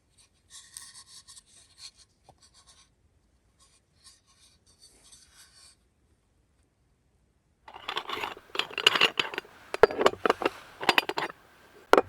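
Rubbing and scraping sounds: faint, high, scratchy strokes at first, then from about eight seconds in a run of much louder scraping strokes with sharp clicks.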